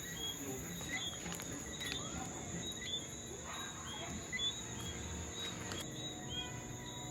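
Crickets and other night insects trilling in a steady high drone, with short chirps repeating about twice a second over it.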